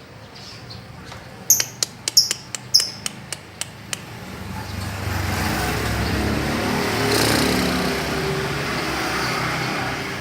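A run of short, sharp bird chirps from about a second and a half in to about four seconds in, then a motor vehicle's engine and road noise that swells, peaks a little past the middle and stays to the end.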